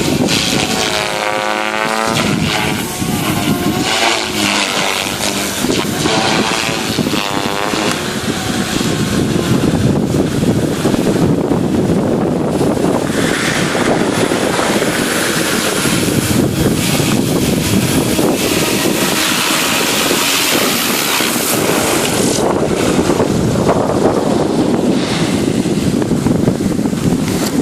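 Radio-controlled Devil 380 helicopter flying, its rotor and motor whine wavering up and down in pitch over the first several seconds, then giving way to a steady rushing noise.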